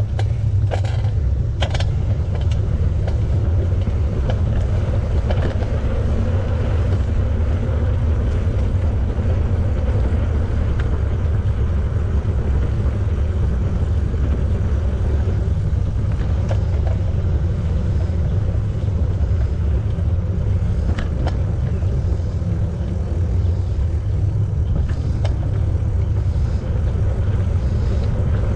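Steady low rumble of wind on the microphone, with bicycle tyre noise, while riding along a paved trail. A few sharp clicks come at the start.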